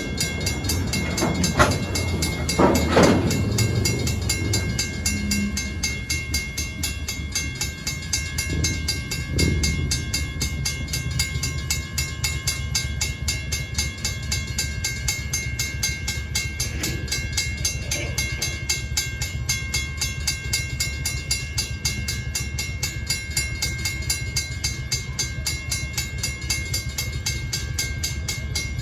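Stockton Terminal and Eastern train rolling past with a steady rumble of wheels on rail, with a few louder knocks in the first few seconds.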